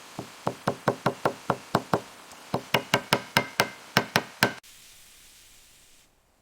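Hammer blows in a quick series, about twenty strikes at roughly four a second, cutting off suddenly.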